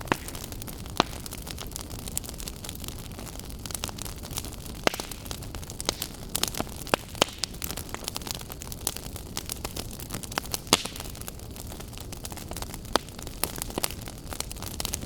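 Wood fire in a fireplace, crackling with frequent irregular sharp pops over a steady low rumble of flames.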